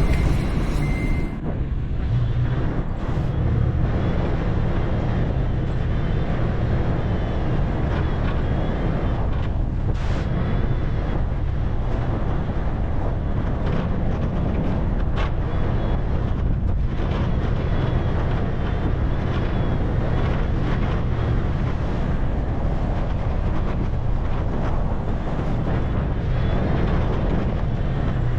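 Toyota FJ Cruiser's 4.0-litre V6 running at low trail speed, heard from inside the cabin as a steady low rumble of engine and tyres on dirt, with a few light knocks from bumps. A high warning tone, likely the seatbelt reminder, stops about a second in as the belt is buckled.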